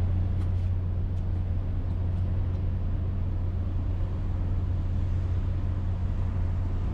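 Steady low engine drone, heard from on board: a constant deep hum under an even rumbling noise.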